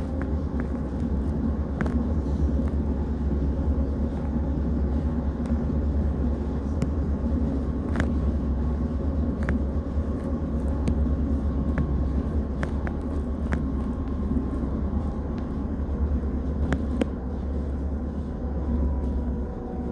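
Passenger train running, heard from inside the carriage: a steady, deep running noise with a faint steady hum and scattered sharp clicks.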